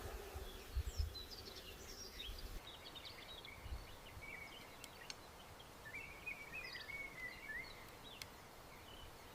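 Faint birds chirping and twittering in short, scattered calls, with a few low rumbling thumps in the first second.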